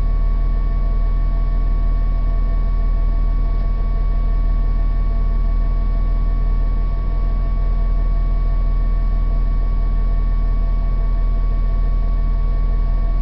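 Saturn SW2's 1.9-litre four-cylinder engine idling steadily during its cold-start warm-up, heard from inside the car, with a steady whine on top while the secondary air injection pump is running.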